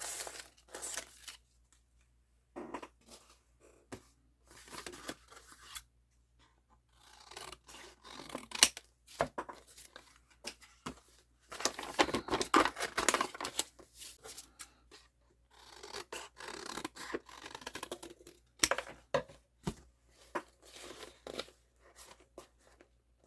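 Scissors cutting paper in short, irregular bursts of snips, with paper rubbing and rustling as it is handled between cuts.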